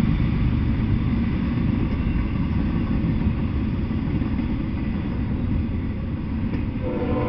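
Freight train of double-stack container cars rolling past at speed: a steady low rumble of wheels on rail. Near the end a steady tone at several pitches sets in suddenly over the rumble.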